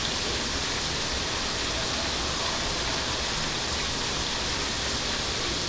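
Ground meat frying in a pan, a steady sizzling hiss with no breaks.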